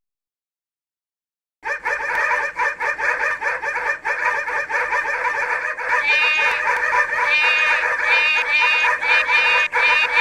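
A flock of birds calling all at once, a dense chorus of clucking-like calls that starts about a second and a half in. From about the middle, short, sharp squawks repeat over it several times a second.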